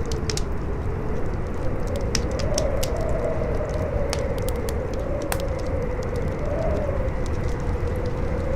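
Howling wind, a whistling tone that slowly wavers up and down over a steady low rumble, mixed with the scattered pops and crackles of a burning fire.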